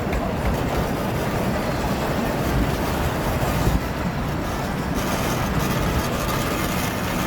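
Ride-on miniature train running, a steady low rumble with no let-up.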